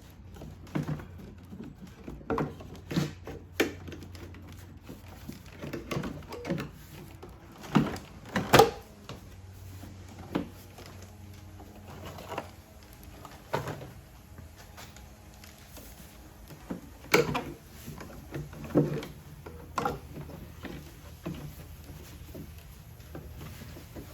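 Irregular plastic clicks and knocks as the air intake duct and air filter housing of a Mercedes-Benz E350 (W212) are handled and pushed into place, with the two loudest knocks about eight seconds in.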